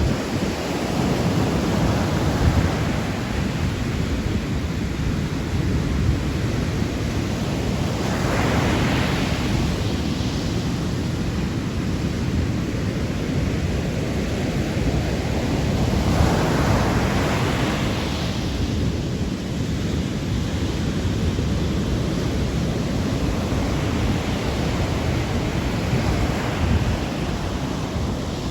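Sea waves washing in, with two louder surges of surf about eight and sixteen seconds in. Wind buffets the microphone as a constant low rumble underneath.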